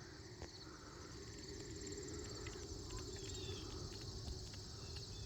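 Steady high-pitched insect chorus, with a few short chirps about three seconds in and again near the end.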